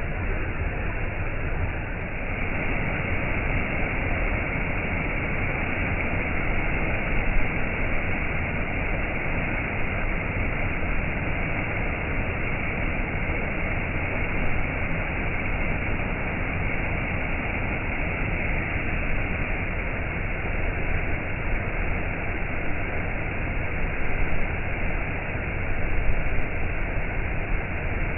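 Waterfall: water falling and rushing as a steady, unbroken noise.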